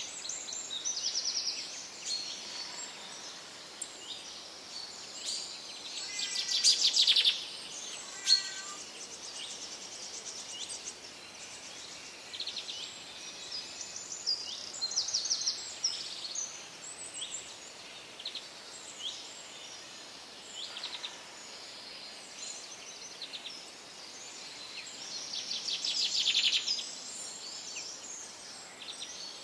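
Small birds chirping and twittering over a steady outdoor hiss, with two louder rapid rattling trills, one about six seconds in and one near the end.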